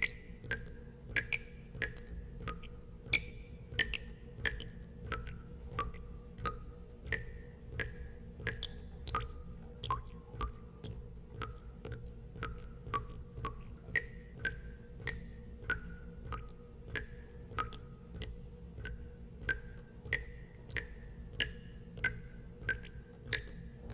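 Water drops falling into water one after another, nearly two a second, each a short plink whose pitch changes from drop to drop, over a steady low hum.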